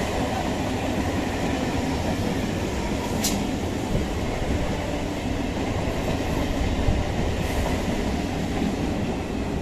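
Electric multiple-unit local train running past at speed: a steady, loud rumble and clatter of steel wheels on the rails as the coaches go by, with one brief sharp high click about three seconds in.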